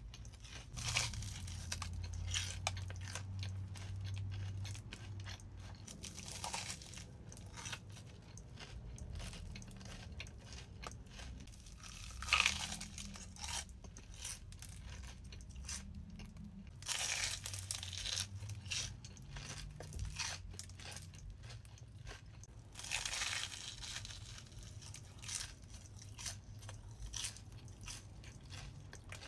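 Close-up bites into a crispy battered Korean corn dog and chewing: a loud crunch about every five to six seconds, with softer crackly chewing between.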